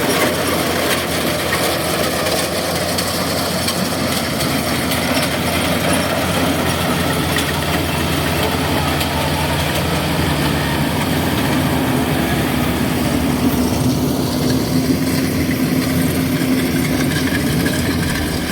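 Kubota DC70G combine harvester's diesel engine running steadily under load. A continuous engine drone is mixed with the harvesting machinery's noise, and a steady hum grows more prominent about two-thirds of the way through.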